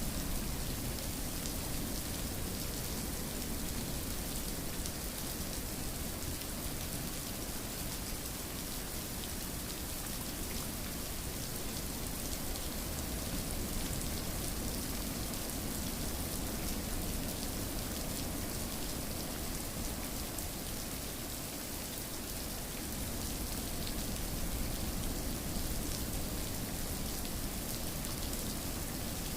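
Steady rain falling and pattering on a surface, a continuous even hiss with fine drop ticks.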